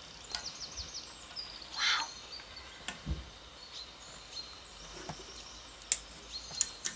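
Birds chirping and calling: short high twittering notes, with a harsher squawk about two seconds in and a few sharp clicks near the end.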